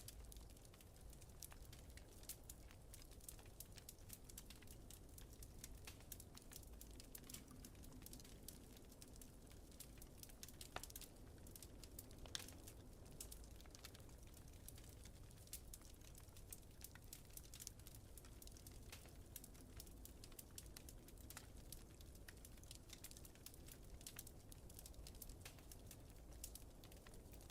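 Faint wood fire crackling, with frequent irregular small pops over a steady low rumble.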